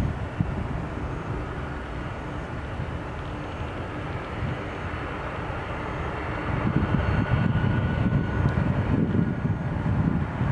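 Jet engines of a Boeing 737-900ER (CFM56-7B turbofans) on landing approach, a steady rumble with a faint whine, the low rumble growing louder from about six and a half seconds in.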